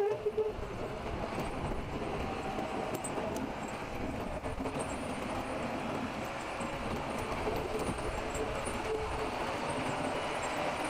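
A vehicle running steadily: a continuous noisy sound with a faint hum through it.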